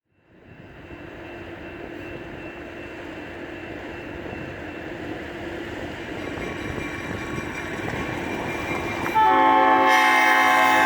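Alco RS-36 diesel locomotive approaching with its passenger train, a rumble that grows slowly louder; a little after nine seconds in, its K5LA horn starts to blow, loud and steady, a chord of several notes, for the grade crossing.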